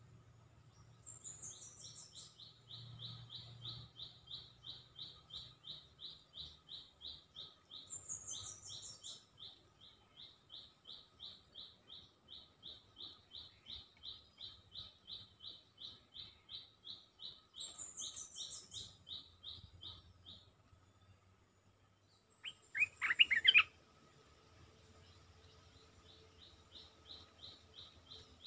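A bird, used as a decoy to lure wild birds, sings a long, even trill of about five high notes a second. Three times the trill opens with a quick run of descending higher notes. About 23 seconds in, a brief, much louder burst of lower, sliding calls breaks in before the trill resumes.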